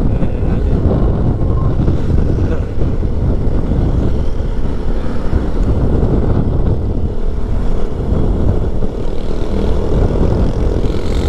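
Keeway 152 motorcycle underway, heard from the rider's microphone: a steady, loud rush of wind buffeting with the engine's drone underneath.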